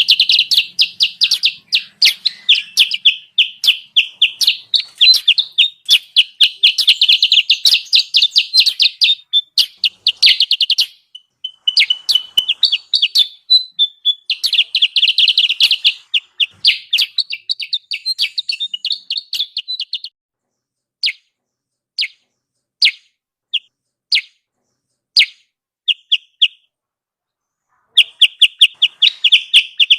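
Lure recording of the kutilang sutra, a rapid, high chattering of short repeated notes used to draw wild birds in. It runs dense and busy, thins to a handful of single chirps about twenty seconds in, pauses briefly, then the fast chattering starts again near the end.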